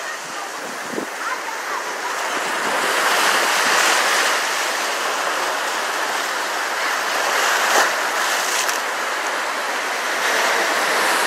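Ocean surf washing in among rocks: a steady rush of water that swells a few seconds in, with a brief click near the end.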